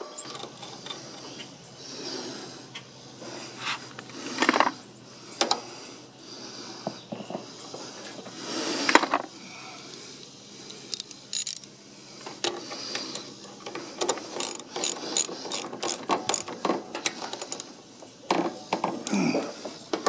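Scattered metallic clicks, knocks and scrapes of hand work on a lawn mower's steering bar as it is fitted back into place, with a few louder scraping clanks.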